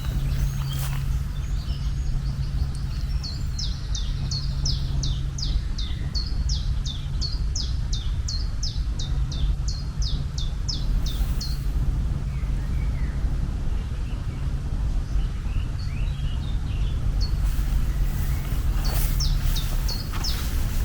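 A bird calling a rapid run of short, falling chirps, about three a second, that stops about twelve seconds in, with a few more chirps near the end. Under it runs a steady low rumble with a hum that comes and goes.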